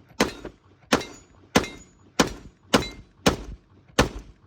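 Draco AK pistol firing seven single shots in steady succession, about one every two thirds of a second, each with a short ringing tail.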